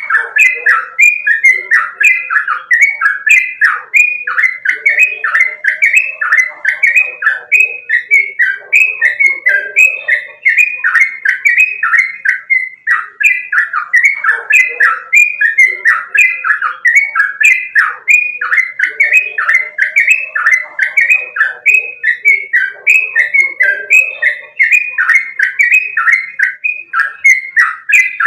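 Yellow-vented bulbul (trucukan) singing a fast, unbroken run of short chirping notes, about three a second, each dropping quickly in pitch. Fainter, lower calls come and go underneath twice.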